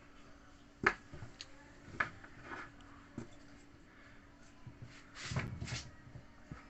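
Small hard objects being handled on a work surface: three sharp clicks or knocks about a second apart, then a short rustling scrape about five seconds in.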